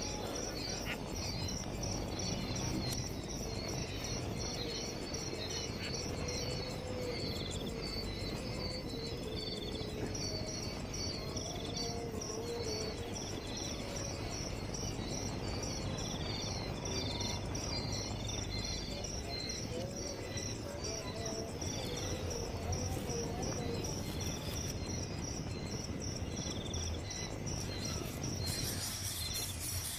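Insects trilling steadily in a fast pulsing chorus, with short bird chirps repeating over it.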